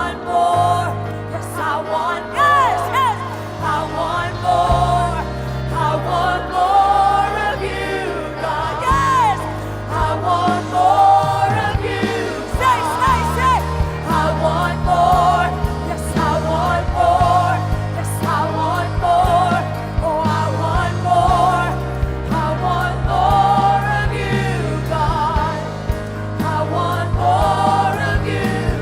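Congregational worship song: several voices singing a slow gospel melody over sustained keyboard chords and bass.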